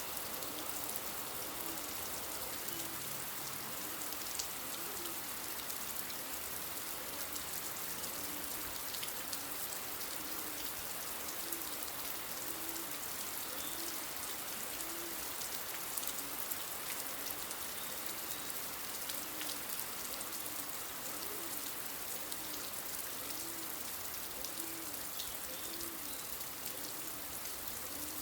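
Steady rain falling, an even hiss, with a soft low note repeating about once a second underneath and a few faint high bird chirps.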